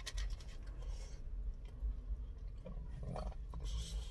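Close-up chewing of a lamb wrap, with the paper wrapper and napkin crinkling in short crackly bursts, over a steady low rumble in a car cabin.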